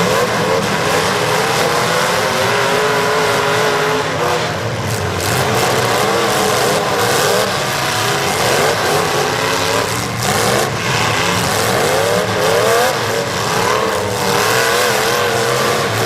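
Several demolition derby cars' engines revving hard at the same time, their pitches rising and falling over one another without a break.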